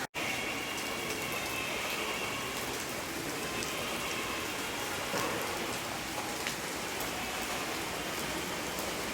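Rain falling inside a limestone cave: a steady hiss with a few sharper drops here and there. The sound cuts out for an instant at the very start.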